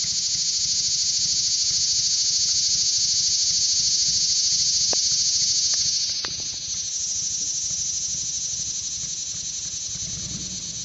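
Cicada buzzing at close range: a loud, ear-piercing, continuous high-pitched buzz that dips briefly and changes tone about six seconds in, then carries on.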